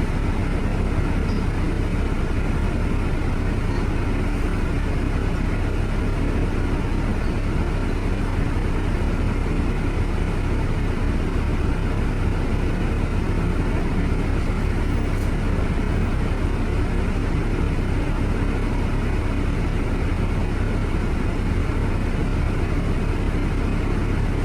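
Steady low rumble of a vehicle driving, with even road noise and no distinct events.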